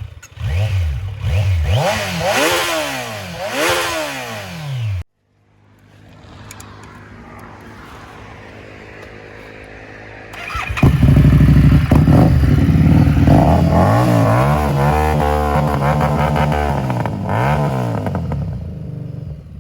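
Motorcycle engine and exhaust being revved: several throttle blips rising and falling, cut off abruptly about five seconds in. Then a steady idle, and from about ten seconds in, louder repeated throttle blips over a deep idle.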